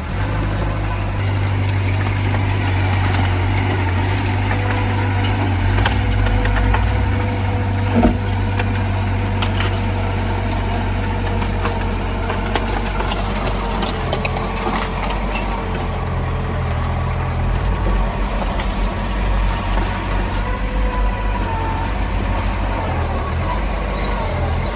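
Heavy diesel earthmoving machinery running steadily with a deep rumble and a faint steady whine above it, with a single sharp knock about eight seconds in.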